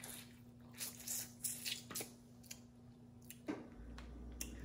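A person chewing seasoned boiled shrimp up close, a handful of short wet chewing and squishing noises with pauses between them.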